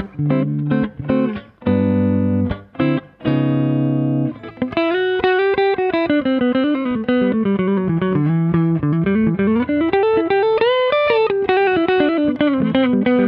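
Semi-hollow electric guitar with humbucker pickups played through a Fender Hot Rod Deluxe IV 40-watt tube combo on its clean channel. A few chords are played with short breaks, then about four and a half seconds in it moves to a flowing single-note melody that slides up and down in pitch.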